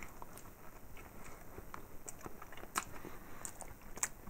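Faint chewing of a soft tuna sandwich on white bread, with scattered small mouth clicks and ticks.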